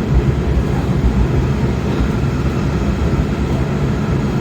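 Kawasaki 7000-series Metrorail car running fast, heard from inside the car: a steady low rumble of wheels on rail and running gear.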